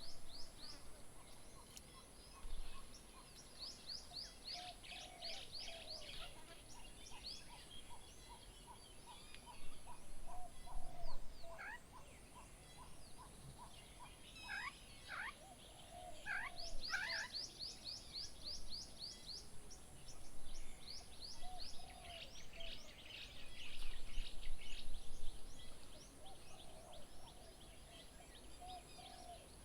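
Several birds calling at once: quick runs of high, falling notes, a long series of evenly repeated lower notes in the first third, and occasional low warbling calls, over a steady high-pitched whine that breaks off twice.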